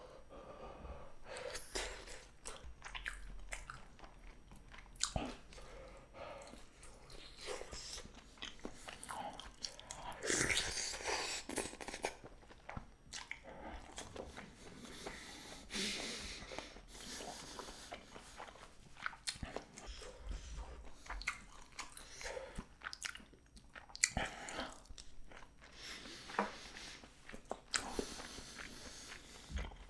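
Close-up chewing of spicy braised chicken (jjimdak) with melted cheese: wet, sticky mouth sounds and bites, with a few louder bursts of chewing or slurping now and then.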